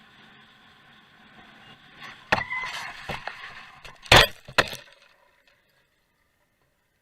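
Car collision: a first sharp impact about two seconds in, followed by about a second of scraping, crunching noise, then two louder impacts close together around four seconds in; the sound cuts off soon after.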